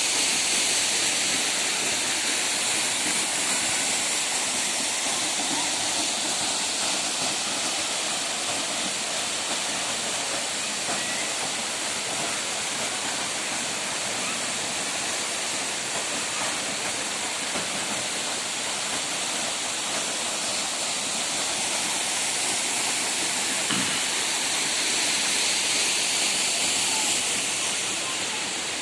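Waterfall: a steady, loud rush of falling water, with no break or change in character.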